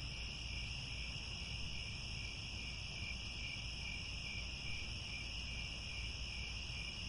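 A chorus of crickets chirring steadily, a continuous high trill without pauses, over a low steady background rumble.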